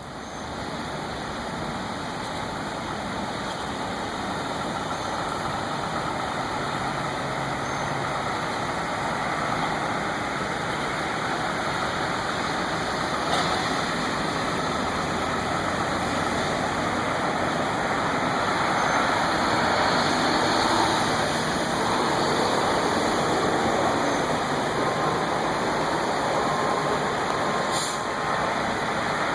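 A truck's engine running under a steady rushing hiss, fading in at the start and then holding level.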